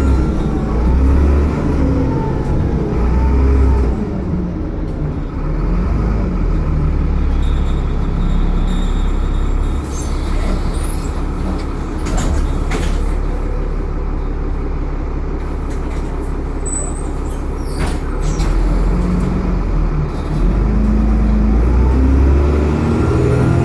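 Dennis Trident double-decker bus's diesel engine running under way, with its pitch rising and falling near the start and climbing again near the end as the bus pulls away, steadier in between. A few sharp clicks or knocks fall around the middle.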